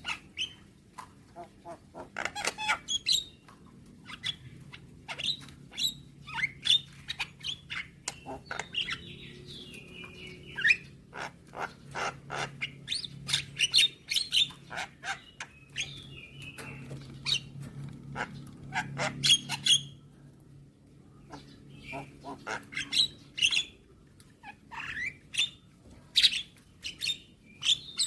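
Javan myna (jalak kebo) calling: a rapid run of sharp clicks, short chirps and whistles, pausing briefly about two-thirds of the way through, over a faint low hum.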